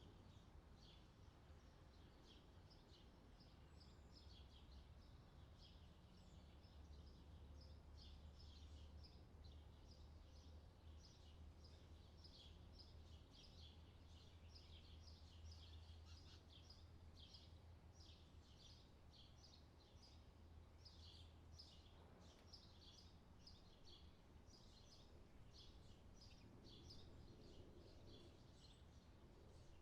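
Faint chorus of forest birds chirping in quick, overlapping short calls, over a low steady rumble that swells in the middle and eases off later.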